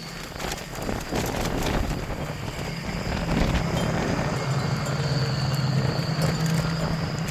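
Strong windstorm gusts buffeting the microphone, growing louder about a second in and staying loud, with a steady low hum underneath from partway through and a few faint clicks.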